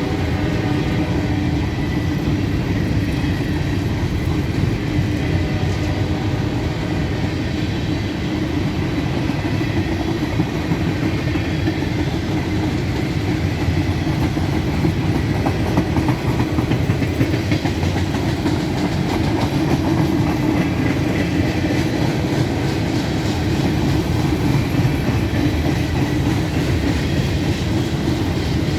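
Empty grain train rolling past at a steady pace, its hopper cars rattling and the wheels clattering over the rails.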